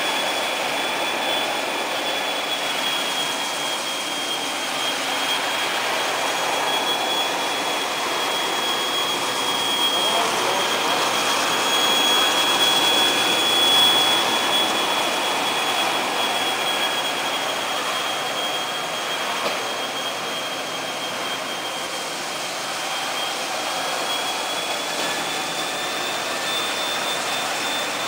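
Kärcher floor-washing machine running steadily: a continuous motor noise with a high whine held throughout.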